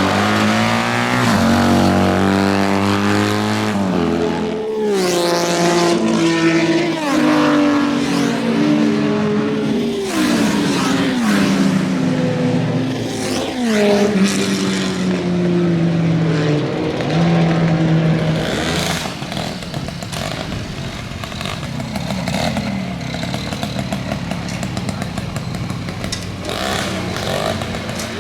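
Motorcycle engines on a race track, revving hard and changing up through the gears as bikes accelerate and pass one after another, their pitch climbing in steps and then falling away. In the last third the engine sound is rougher and less pitched.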